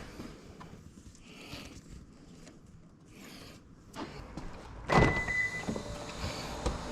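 A Toyota Aqua's engine starting about five seconds in, after a few faint knocks, then running steadily.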